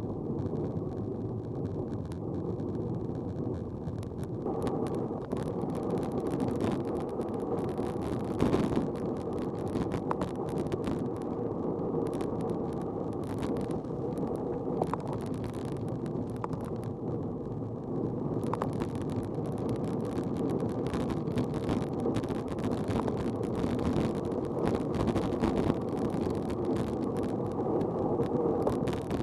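Steady rumble of wind and road noise from a moving vehicle. Crackly, rustling noise joins it about four seconds in, with a few sharp clicks.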